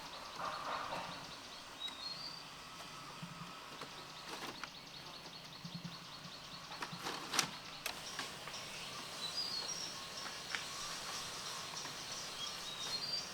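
Outdoor rural background with a small bird chirping briefly a few times, and a couple of sharp knocks in between.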